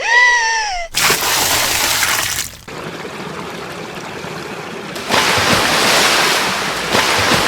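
A short high-pitched cry, then a sudden splash about a second in, followed by steady rushing water that grows louder about five seconds in: water sound effects for a dive underwater.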